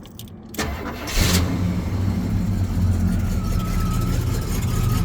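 Buick Riviera's V8 cranked by the starter, catching about a second in, then settling into a steady idle.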